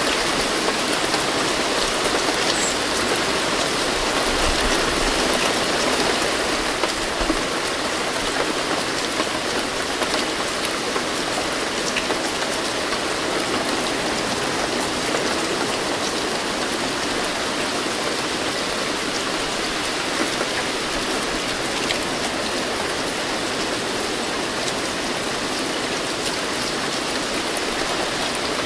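Steady rain falling: an even hiss with many small drop ticks, holding at one level throughout.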